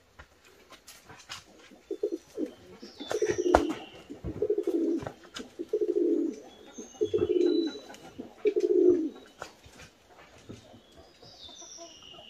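A bird cooing: a run of about six low calls, each under a second, roughly one every second and a half, with faint high chirps of small birds and scattered light knocks.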